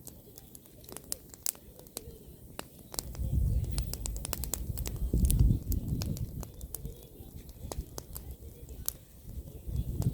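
Bonfire of pruned apple branches crackling, with sharp pops and snaps all through. A low rumble swells from about three seconds in to about six seconds, and again near the end.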